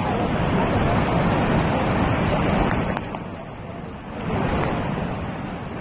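Flooded waterfall's torrent rushing and crashing in a steady, loud wash of water noise, with wind on the microphone. It drops away for about a second near the middle, then comes back.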